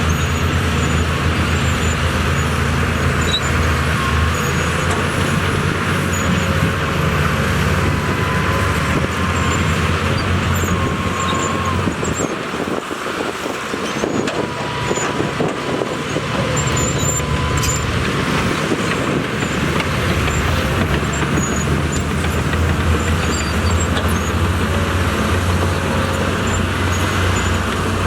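Diesel engine of heavy earthmoving equipment running steadily under load, easing off for a few seconds about halfway through before picking up again.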